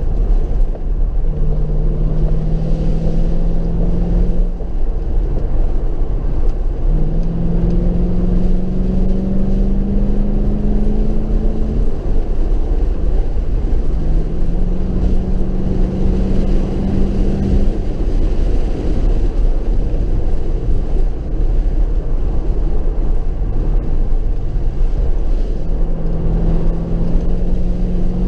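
Mercedes SLK 55 AMG's V8 engine pulling through the rev range in several long, rising pulls, with its note dropping away between them as the car eases off. A steady deep rumble of wind and road noise runs underneath.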